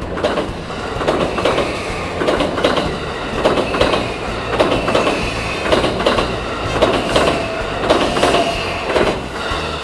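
JR West electric train running on the rails, its wheels clattering over the rail joints in a steady clickety-clack of paired clicks, about a pair a second. A faint held whine comes in about seven seconds in.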